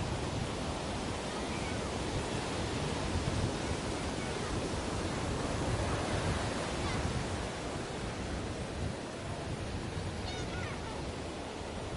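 Sea waves washing onto a beach: a steady surf rush that swells a little in the middle.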